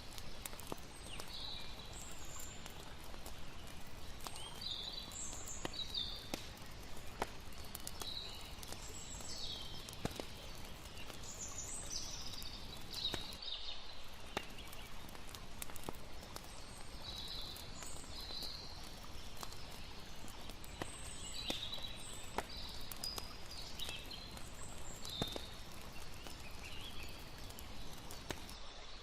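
Layered night ambience: a campfire crackling with frequent sharp pops, short high chirping calls of night creatures, and a steady low rush of water underneath.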